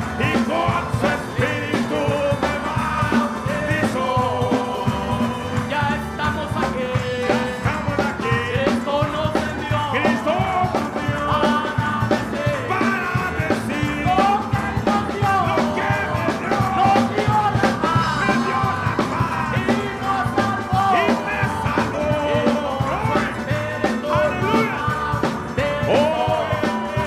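Upbeat gospel praise band playing, with drums keeping a steady beat under a bending melody line.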